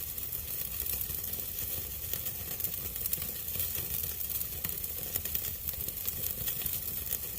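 Strip steaks sizzling on a very hot grill, a steady crackle of fat and juices with fine pops throughout.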